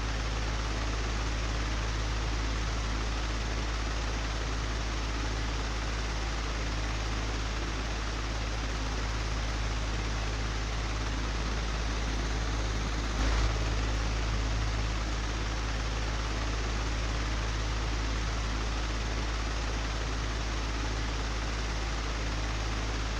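Old, broken electric fan running steadily: an even rushing noise over a low hum. A single brief knock comes a little past halfway.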